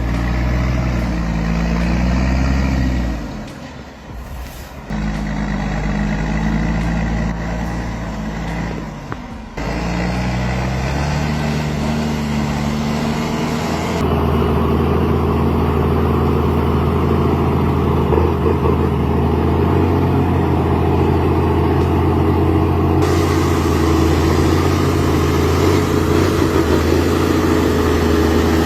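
Heavy truck engines running under load across several cut-together clips, their pitch rising and falling as they pull, with abrupt changes where one clip gives way to the next.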